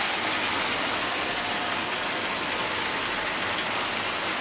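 Green jackfruit chunks sizzling steadily in hot oil and spice paste in a frying pan.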